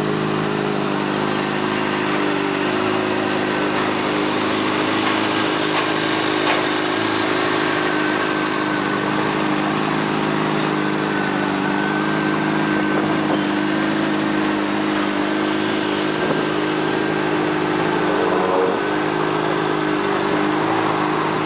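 2007 Honda CBR600RR's inline-four engine idling steadily, its pitch holding nearly constant.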